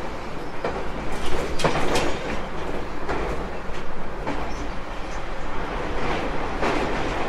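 JR Kyushu 811 series electric train running along the line, heard from aboard: a steady rumble of wheels on rail, with several sharp clacks as the wheels pass over rail joints.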